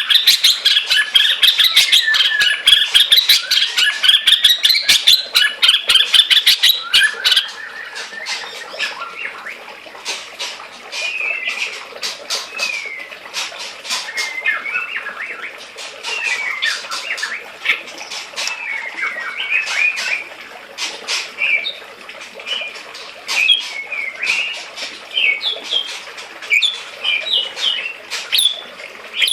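A pet bird chirping and calling in short, quick rising and falling notes, with a dense run of sharp clicks over the first several seconds that thins out afterwards.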